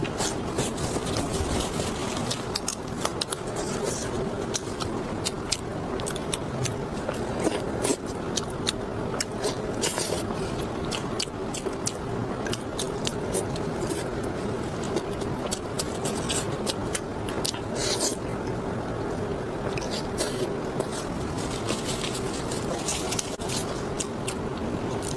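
Close-miked eating: chewing and mouth sounds with many sharp clicks and crackles throughout, over a steady faint hum.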